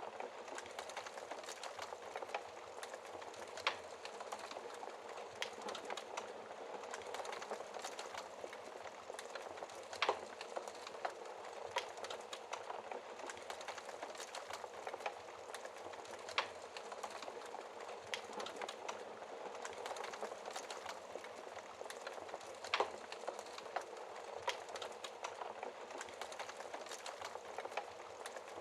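Wood fire crackling in a fireplace: a steady bed of small crackles with a sharper pop about every six seconds.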